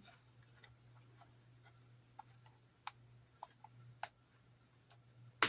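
Scattered small clicks and taps of plastic model parts being handled and fitted, with one sharper click near the end, over a steady low hum.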